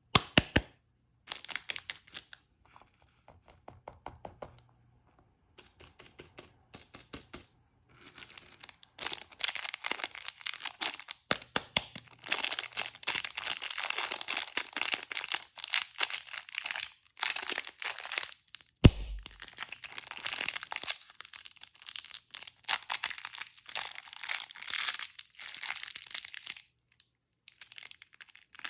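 Candy wrappers and packaging crinkling, crackling and tearing as sweets are unwrapped, with many small sharp clicks, sparse at first and then continuous. One louder, sharp knock about two-thirds of the way through.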